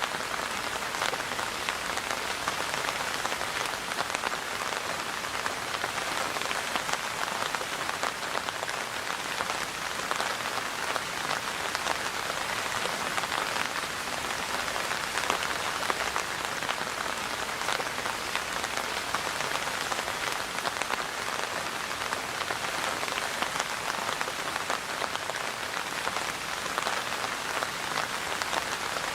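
Steady rain falling: an even hiss flecked with many small drop ticks, unchanging throughout.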